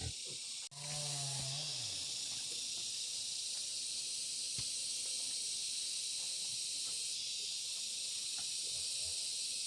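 Steady high-pitched chorus of insects, cicadas or crickets, running throughout after a brief dropout. About a second in there is a single low, grunt-like animal call that drops in pitch.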